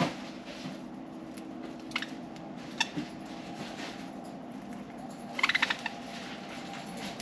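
Pet budgerigars: a few scattered clicks, then a short burst of rapid chirps about five and a half seconds in, over a steady low hum.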